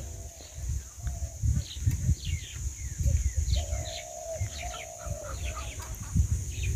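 Birds chirping in many short, falling calls, with a few longer, lower calls in the middle, over wind buffeting the microphone.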